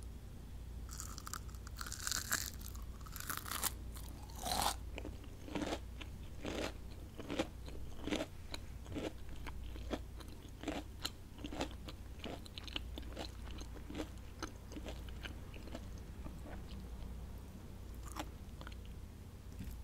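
Close-miked eating of crispy fried onion rings: a crunchy bite about a second in with crackling for a few seconds, then steady crunchy chewing at about two chews a second that fades toward the end. A steady low hum runs underneath.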